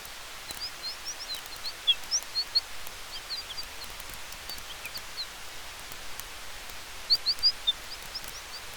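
Small birds twittering in short, high chirps that come in irregular clusters, over a steady hiss of campfire and wind. Faint sharp crackles from the fire tick through it.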